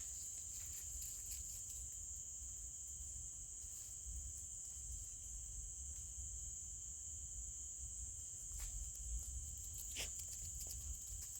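Steady, high-pitched insect chorus of crickets, unbroken throughout, over a low rumble, with a couple of faint clicks near the end.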